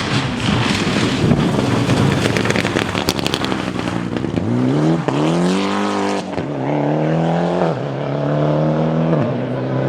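Rally car passing close in a rush of noise with rapid crackles, then its engine accelerating hard away, rising in pitch and dropping sharply at each of about three upshifts.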